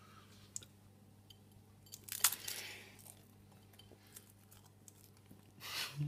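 A cracker being bitten and chewed: one loud crunch about two seconds in, with quieter chewing and small clicks around it.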